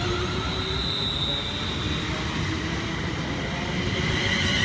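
London Northwestern Railway Class 350 electric multiple unit passing on the main line: a steady rumble of wheels on rail, with a high-pitched tone about a second in and another one building up near the end.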